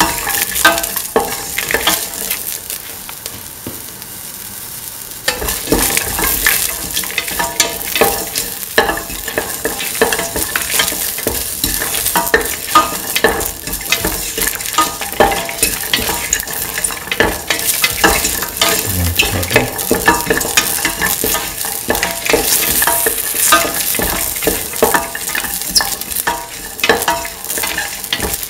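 Shallots, fennel seeds and chillies sizzling in hot oil in a steel pan while a spatula stirs them, with many sharp clicks and scrapes of the spatula on the metal. The stirring eases for a few seconds near the start, then picks up again and keeps going busily.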